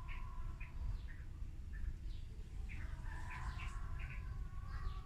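Birds chirping: short, high chirps repeated irregularly, over a steady low rumble.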